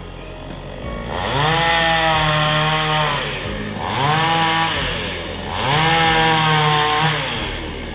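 Petrol chainsaw engine revving up, holding high, and dropping back, three times in a row about two seconds apart.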